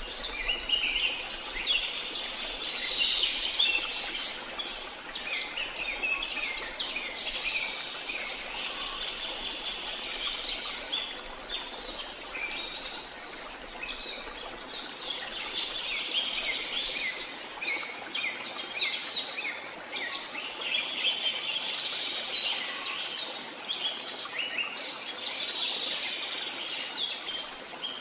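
Many small songbirds chirping and twittering together in a dense, continuous chorus of short, high chirps.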